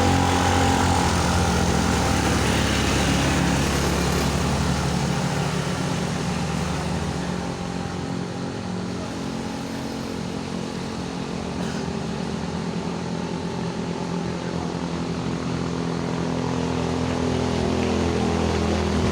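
A vehicle engine running steadily, loud at first, fading somewhat through the middle, then growing louder again near the end.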